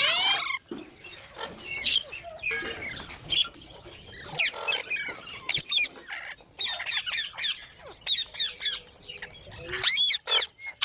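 Green parrot calling: a string of shrill squawks and chattering notes, with a fast series of short, sharp calls in the second half.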